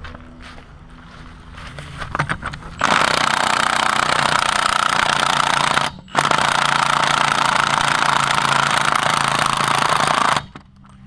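Impact wrench hammering on an axle nut in two long runs, with a brief let-up about six seconds in. The nut is seized, and it is being heated and worked loose.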